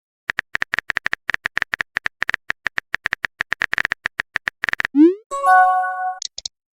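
Phone keyboard typing sound effect: rapid, irregular taps for about four and a half seconds. Then, about five seconds in, a rising swoop and a short bright chime of a message tone.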